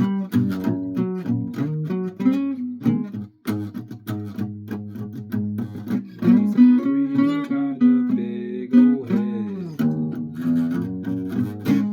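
Instrumental music played on what sounds like a guitar: a quick run of plucked or strummed notes, with some held notes that bend in pitch around the middle.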